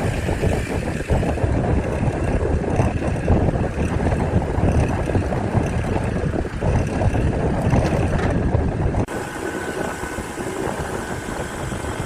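A loud, rough running-machine rumble that cuts off abruptly about nine seconds in. A quieter sound with a faint steady tone follows.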